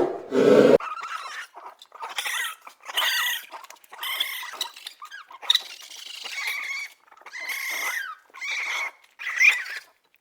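Repeated short, high-pitched cries from a small animal, roughly one a second, some rising and falling in pitch. A loud low animal call cuts off just before them, near the start.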